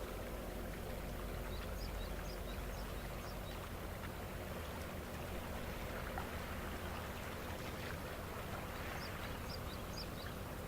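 Steady drone of a boat engine over splashing, rushing water, with two short runs of faint high chirps.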